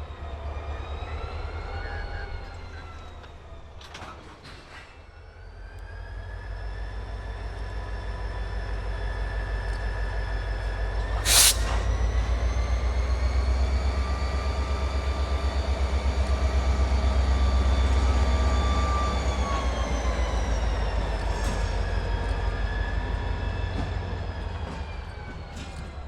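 CSX diesel locomotive working a freight train: a deep engine rumble with a steady whine on top that grows louder to a peak past the middle, then eases off. One sharp, loud clank rings out about 11 seconds in, and a faint high wheel squeal runs through the louder middle part.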